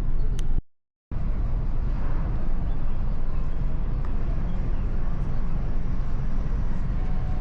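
Steady low rumble on board a passenger ship, with a brief cut to silence lasting about half a second, just under a second in.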